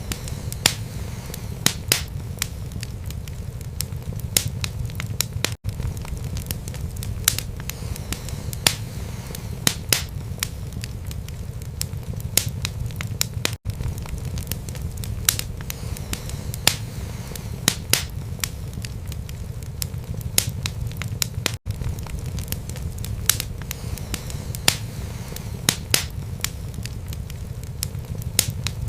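Wood fire burning in a fireplace: frequent irregular sharp crackles and pops over a steady low rumble of flames. The sound drops out for an instant three times, about eight seconds apart, at the seams of the loop.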